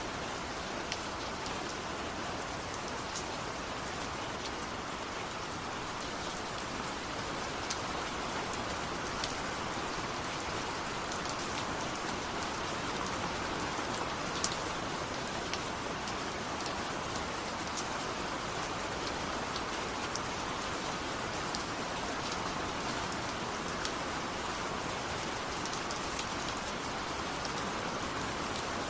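Steady rain falling on a surface, an even hiss with scattered sharp ticks of individual raindrops.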